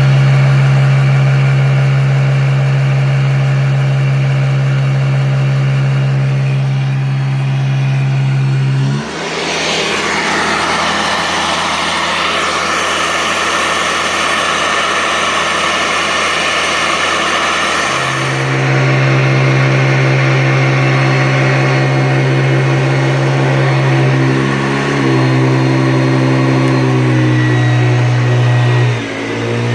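1985 Hoover Decade 80 upright vacuum running with a steady motor hum. About nine seconds in the sound changes to a broader, rushing noise, and the hum comes back about eighteen seconds in, with two brief dips near the end.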